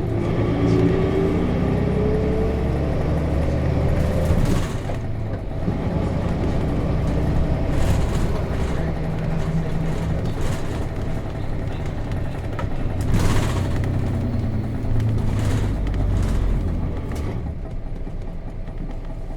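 Nissan Diesel RM route bus's FE6 inline-six diesel engine running under way, heard from inside the bus. The engine pitch climbs in the first couple of seconds as it pulls. Short rushes of noise come about four seconds in and again about thirteen seconds in.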